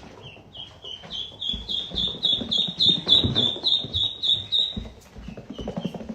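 An animal call: a rapid series of short, high chirps, about five a second, growing louder and then fading out about five seconds in, with a few low knocks underneath.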